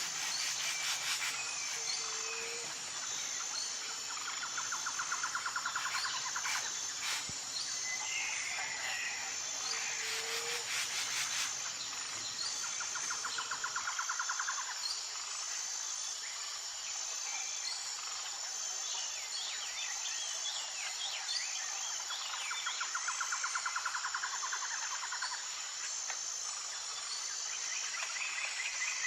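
Nature ambience: a steady, high, pulsing insect chorus with several rapid trills and occasional bird chirps.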